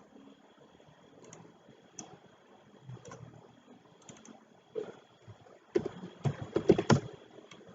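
Computer keyboard typing: a few scattered keystrokes, then a quick run of loud keystrokes about six seconds in.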